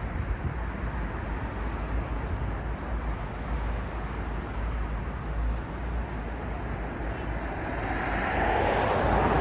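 City street traffic ambience: a steady low rumble of traffic, with a vehicle approaching and growing louder over the last two seconds.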